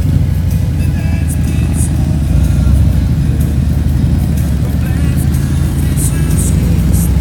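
Motorcycle engine running at low speed, a steady low rumble, with music playing along with it.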